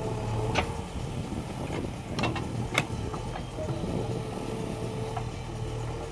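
Diesel engine of a JCB 3DX backhoe loader running steadily, with a few sharp knocks a little after the start and around the middle.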